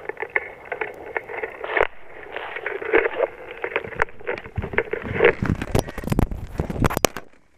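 Irregular crackling, scraping and knocking over a steady hiss, with the loudest knocks bunched a little past the middle before it dies away near the end.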